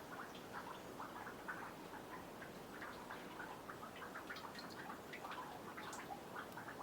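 Meltwater dripping from a snowy boardwalk into a nearly frozen pond: many quick, irregular plinks and ticks, several a second.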